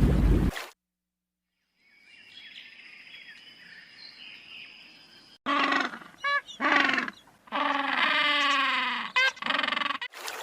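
An animal calling: a series of short pitched calls, then one longer call, then a couple more short ones, starting about halfway through after a faint quiet background.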